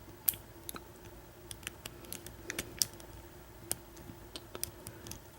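Irregular small metallic clicks and ticks of a lock pick working the pins of an American 1100 padlock with tension applied, while the lock sits in a false set. A faint steady hum runs underneath.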